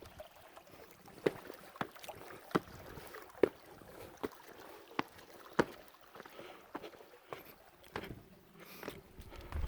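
Footsteps of a hiker walking briskly on a trail, a sharp step about every two-thirds of a second.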